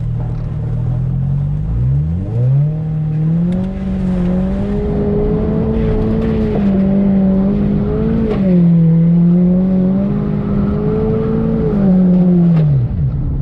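Turbocharged Scion FR-S flat-four engine revving up from idle about two seconds in and holding high revs for several seconds, dipping briefly, then falling back to idle near the end.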